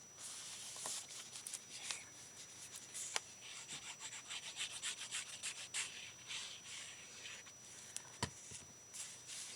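Paper being rubbed and handled by hand, an irregular scratchy rustling as the sheets are pressed and smoothed, with a few light taps.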